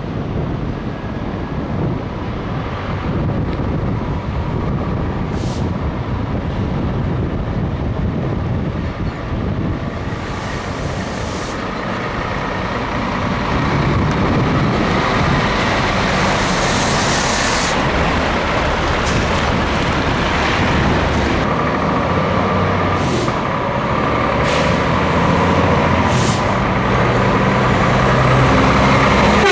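Scania truck's diesel engine running on the road, with several short hisses over the engine noise, the longest about 10 and 16 seconds in. The running gets a little louder about halfway through.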